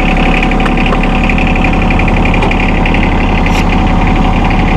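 John Deere 2025R compact tractor's three-cylinder diesel engine running steadily with a diesel rattle.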